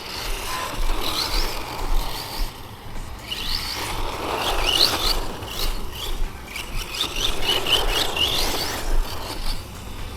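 Rlaarlo Omni Terminator electric RC car on a full-throttle speed run on stock tyres, its motor and tyres swelling loudest about four to five seconds in. Birds chirp throughout.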